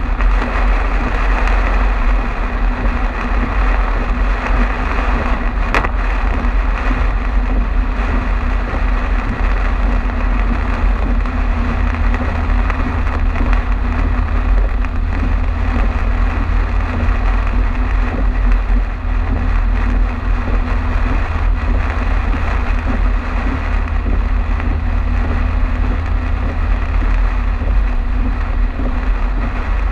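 Car driving on a highway in a heavy rainstorm: a steady low road and engine rumble with the hiss of rain and tyre spray. A single click about six seconds in.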